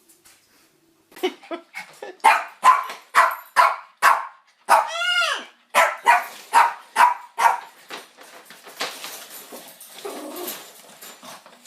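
A dog barking rapidly, about two or three barks a second, with one longer cry rising and falling in pitch about halfway through; the barking stops after about eight seconds.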